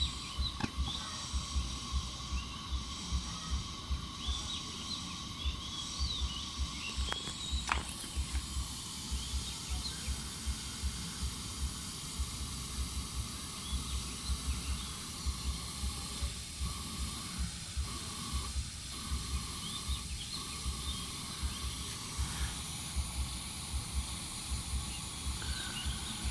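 Kerosene pressure lantern burning with a steady hiss, over irregular low thumps.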